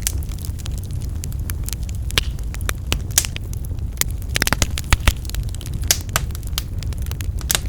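Wood fire crackling in a fireplace: irregular sharp pops and snaps over a steady low rumble, with a quick flurry of pops about halfway through.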